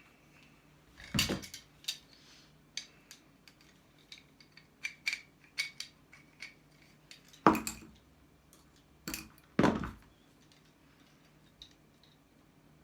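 Small metal parts clinking and scraping while a small electric motor is taken apart for its copper, with a few louder knocks: one about a second in and three close together in the second half.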